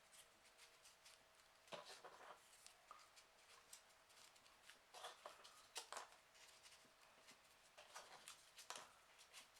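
Faint rustling and soft clicks of folded paper pieces being handled and pushed into place on a 3D origami model, coming every second or two.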